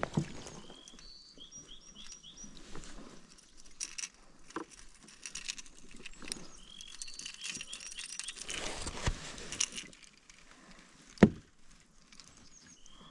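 Birds chirping in short runs of quick high notes, over scattered clicks, rustles and light knocks from close-up handling of gear, with one sharp knock about eleven seconds in.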